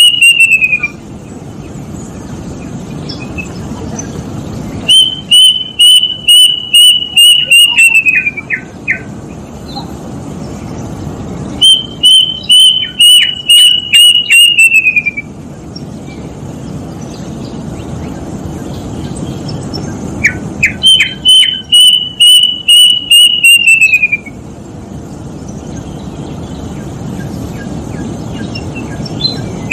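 Kedasih cuckoo (Cacomantis) singing: four loud bouts of plaintive whistles, each a run of about ten even notes that drop in pitch at the end, mixed with quick rising notes. The bouts come every seven or eight seconds over a steady background hiss.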